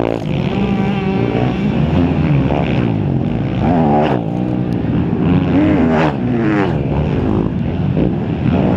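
Motocross bike engines running and revving, their pitch rising and falling again and again.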